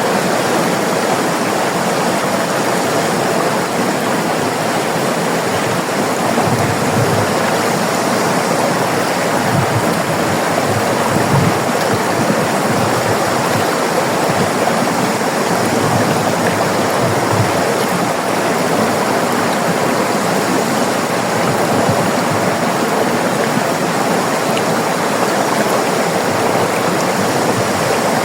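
River water flowing and rushing steadily, an even, continuous rush with no breaks.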